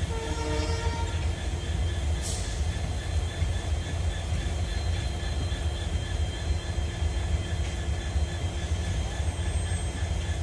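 Passenger train hauled by a WDP4D diesel locomotive pulling slowly out, a steady low rumble of the rolling coaches and the locomotive. A short hiss about two seconds in.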